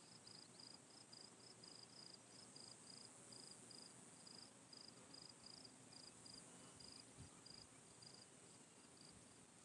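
Faint cricket chirping, a regular high-pitched chirp about three times a second, over a steady high hiss.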